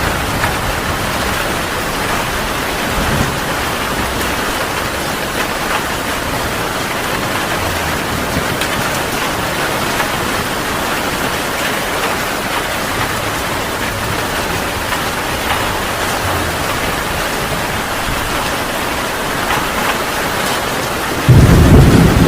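Heavy rain falling steadily; about a second before the end a loud clap of thunder breaks in suddenly and rumbles on.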